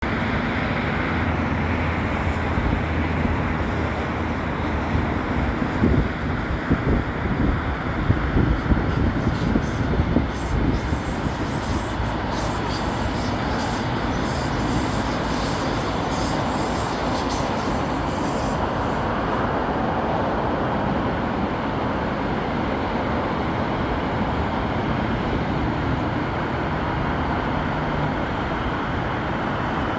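Sound Transit Link light rail train running, a steady rumble with a low hum at the start. A run of knocks comes from about five to eleven seconds in.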